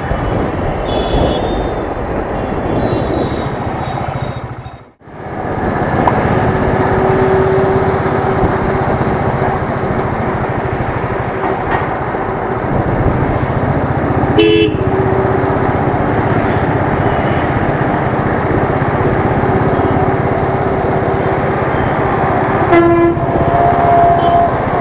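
Riding noise from a Royal Enfield Thunderbird: the single-cylinder engine running under heavy wind and road noise, with vehicle horns honking in traffic several times. The sound drops out briefly about five seconds in.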